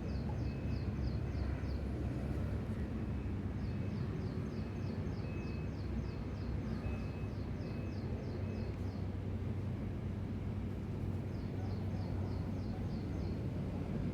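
Outdoor ambience: a steady low hum under three runs of rapid, high-pitched chirps, about six a second, each run lasting a few seconds, with short higher whistle-like notes between them.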